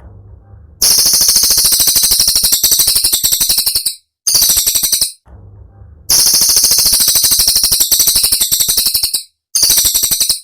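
Cililin bird song: long bursts of fast, sharp, very high-pitched notes fired in rapid succession, the "tembakan" phrases, four bursts in all. Between them come short pauses where only a faint low background remains.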